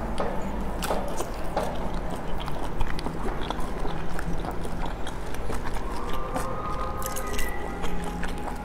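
Close-up chewing and biting of boiled dumplings dipped in chili-oil sauce, with many small wet mouth clicks.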